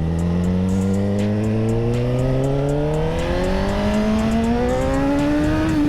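Suzuki GSX-R1000 inline-four engine accelerating in one long steady pull, its pitch rising smoothly and peaking near the end.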